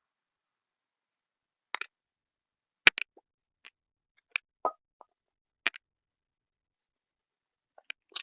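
A scattering of separate sharp clicks and taps, about eight of them spread unevenly through the stretch, with dead quiet between. The loudest is about three seconds in, and a duller knock follows between four and five seconds.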